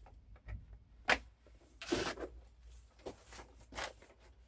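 Handling noises from a plastic microwave pasta cooker: a sharp click about a second in, a short rustling scrape near two seconds, then a few lighter clicks and taps.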